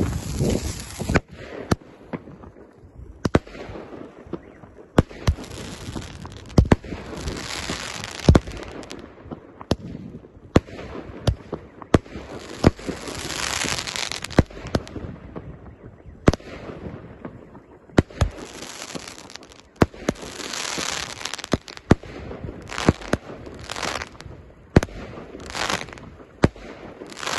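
A 16-shot consumer fireworks cake firing its shots one after another: sharp launch thumps and bursts, with spells of crackling hiss as the stars break and sparkle.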